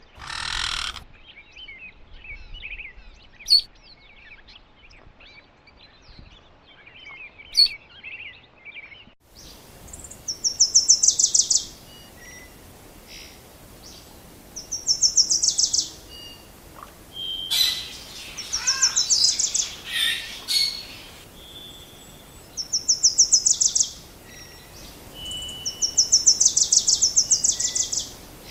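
Birdsong: small birds twittering and chirping, then about nine seconds in the ambience changes abruptly and a bird sings a loud, fast trill that repeats every three to four seconds, with scattered softer chirps between.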